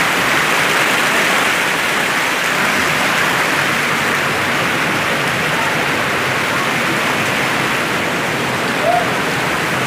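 Steady rush of flowing spring water, an even hiss of moving water with no breaks.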